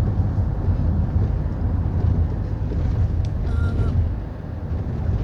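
Steady low engine rumble with wind noise from a moving vehicle.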